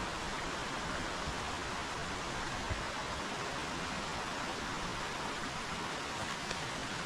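River water running steadily, an even noise of flowing water.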